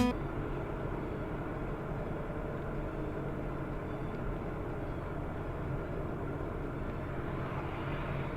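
Steady drone of a car's engine and road noise while driving, with no sudden events.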